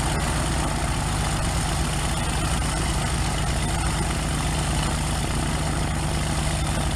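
A small plane's engine idling steadily after startup, a low even drone with no change in pitch, while the aircraft waits to taxi.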